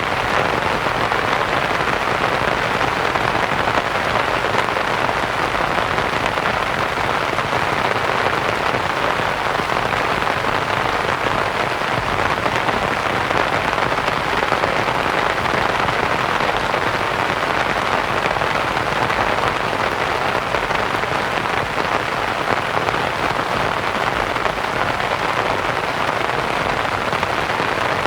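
Steady rain pattering on a canvas tent, blended with soft white noise: an even, unchanging hiss.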